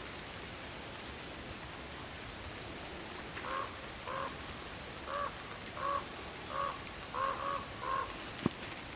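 An animal calling in a series of about eight short, pitched notes, roughly one and a half a second, starting a third of the way in, over steady night-forest ambience. A single short, sharp downward-sweeping sound follows just after the last call.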